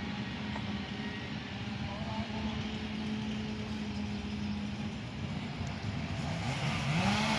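A small engine on the crew's tree-clearing equipment runs at a steady pitch. It eases off about five seconds in, then climbs back up in pitch and gets louder near the end.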